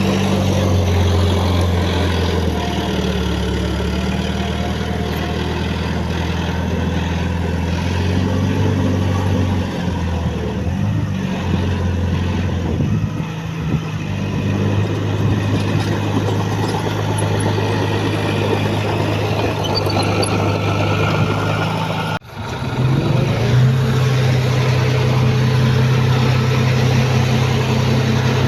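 Heavy earthmoving machinery's diesel engine running, its speed shifting with load in the first part. There is a momentary break about three quarters of the way through, then the engine runs steadily.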